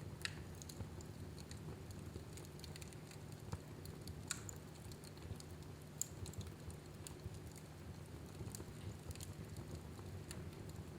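Fire burning in a fireplace, crackling with irregular small pops and a few louder snaps, over a steady low rumble.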